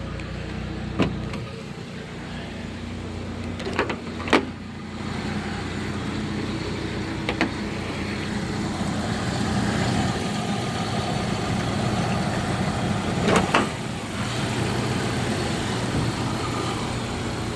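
1997 Jeep Wrangler engine idling steadily after a cold start, a little louder from about five seconds in. A few sharp clicks and knocks sound over it, the loudest two close together about four seconds in.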